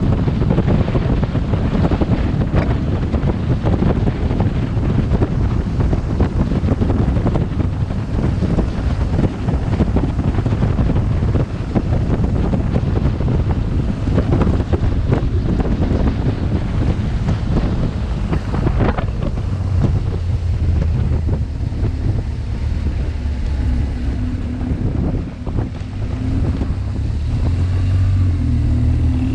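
Wind buffeting the microphone of a helmet camera on a moving BMW R1200GS motorcycle. The bike's boxer-twin engine drone comes through more steadily underneath in the second half, as the wind noise eases.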